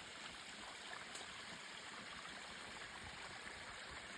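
Small spring-fed waterfall splashing steadily into a stream.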